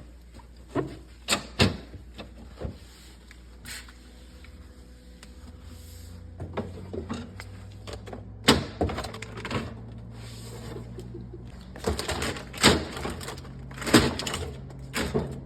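Irregular knocks and clatter of fridge parts and containers being handled, moved and set down while the fridge is cleaned, the loudest clunks a few seconds apart, over a low steady hum that comes in about a third of the way through.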